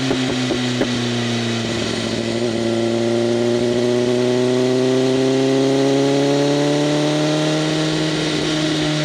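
BMW M1000RR's inline-four engine through an SC-Project CRT exhaust with open flaps, running under way. Its pitch climbs gradually from about two seconds in until near the end as the bike accelerates, with a few short sharp ticks in the first second.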